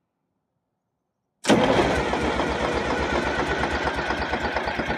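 Detroit Diesel 6V92 two-stroke V6 diesel being cranked cold and trying to fire, starting suddenly about a second and a half in with a loud, even pulsing and stopping near the end. The hard cold start is one the owner puts down to leaking or clogged injectors or stuck piston rings.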